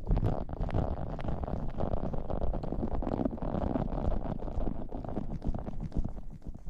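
Close-up rubbing and rustling against a microphone: a dense crackly texture full of small clicks, heavy in the low end.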